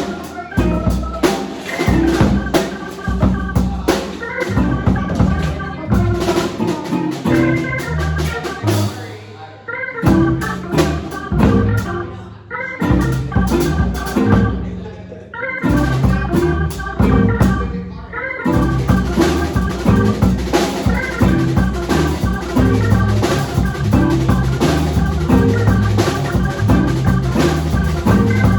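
Band playing an instrumental passage with drum kit and an organ-toned keyboard. It thins out briefly a few times in the first half, then the full band comes back in and plays on.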